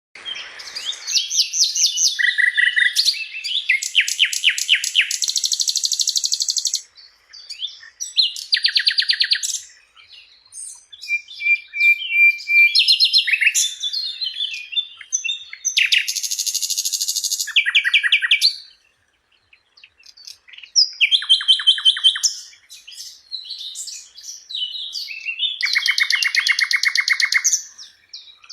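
Sikatan londo flycatcher singing a long, varied song: bursts of high chirps alternate with fast rattling trills of rapidly repeated notes lasting a few seconds each, separated by short pauses.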